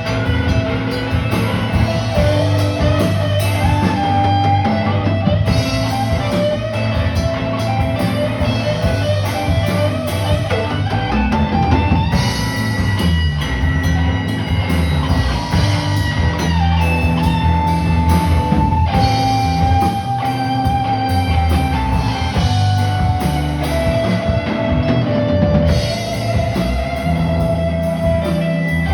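Live rock band playing an instrumental passage: electric guitar holding long melody notes over a drum kit and steady low notes.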